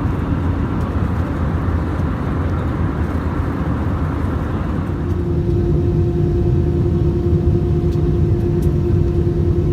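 Steady cabin rumble of an Airbus A320 airliner in flight, engine and airflow noise heard from inside the cabin. About five seconds in, a steady humming tone joins the rumble and holds.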